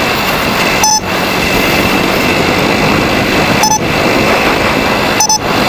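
Loud steady wind and road noise from riding a motorcycle through traffic, broken by three brief glitchy dropouts: about a second in, near four seconds and just past five seconds.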